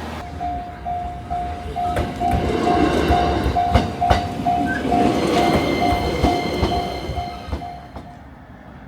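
Railway level-crossing bell ringing at about three dings a second while a train passes, with rumbling and sharp knocks from the wheels. The bell stops near the end.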